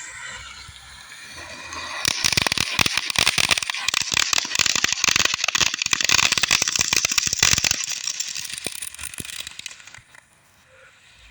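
Consumer firework fountain burning: a hissing spray that swells about two seconds in to a loud, dense crackle for about six seconds, then dies away into scattered pops and goes quiet near the end.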